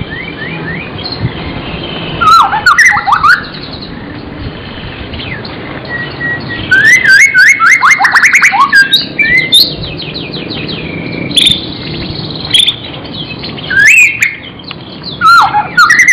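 Murai (a shama thrush, genus Copsychus) singing loudly in repeated bursts of rapid whistled and sweeping phrases, with a longer, busier run of notes in the middle.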